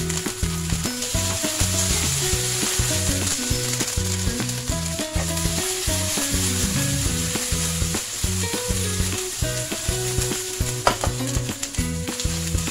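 Baby asparagus spears sizzling steadily in hot oil and garlic in a frying pan, the pan shaken over the flame partway through. Background music plays underneath.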